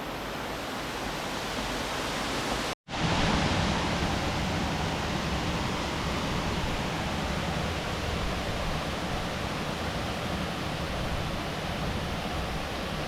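Steady rush of river water. It cuts out for an instant about three seconds in, then comes back slightly louder and deeper.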